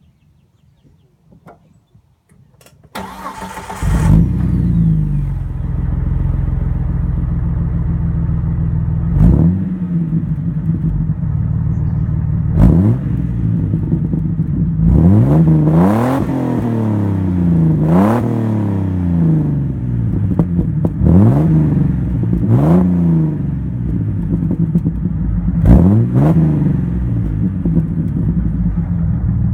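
A 2002 Jeep Wrangler TJ's 4.0-litre inline-six is cranked by the starter about three seconds in, catches and idles through a Magnaflow glasspack muffler. It is then revved and let fall back to idle about seven or eight times.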